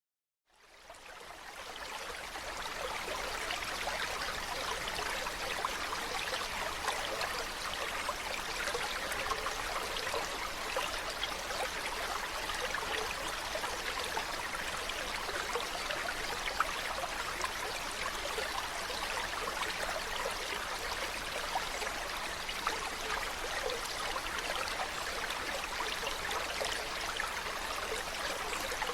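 Running water of a stream, a steady rushing, splashing hiss that fades in from silence over the first couple of seconds.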